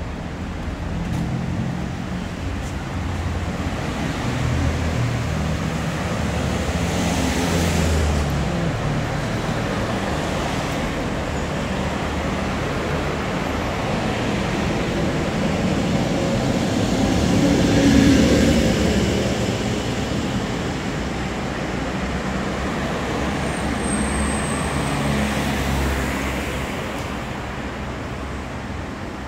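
City street traffic: a steady rumble of road vehicles, with several passing by close; the loudest pass swells about eighteen seconds in.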